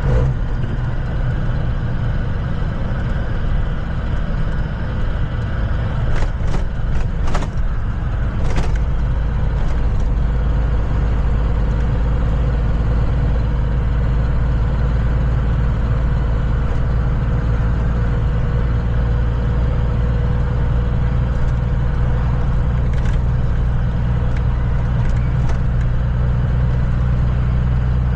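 Kenworth semi truck's diesel engine running with a steady low drone while driving, with a few short clicks or knocks about a quarter of the way in and again later on.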